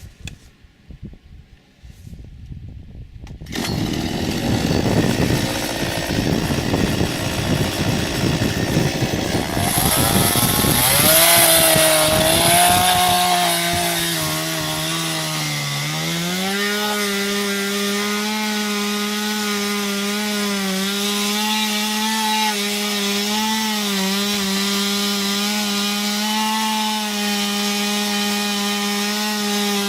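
Small chainsaw with a 15-inch bar cutting into an ash trunk, finishing the hinge from a plunge cut. It comes in loud after a few quiet seconds and settles into a steady high engine note, which dips and climbs again about halfway through.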